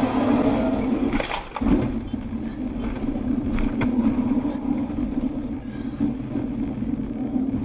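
Steady drone of a car on the move, engine and road noise, with a brief drop and a few short knocks about a second and a half in.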